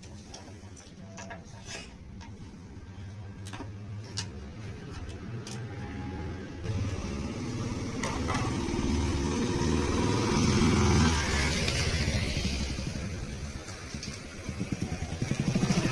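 A motor vehicle's engine running and growing louder, with a rushing noise rising over it about halfway through. Near the end it eases off, then comes back as a loud, regular throb.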